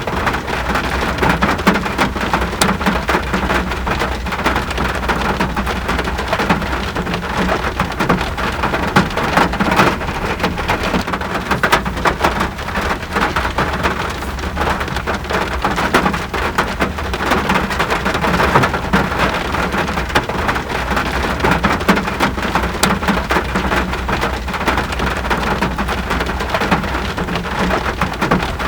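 Steady rainfall, with many individual drops tapping close by over an even rush, and a steady low rumble underneath.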